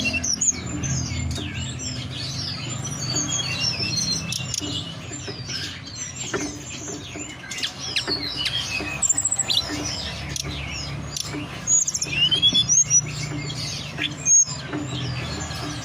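Tledekan gunung songbirds calling in fast, overlapping chirps and short sweeping twitters, a lure recording meant to set a kept bird singing, over a steady low hum.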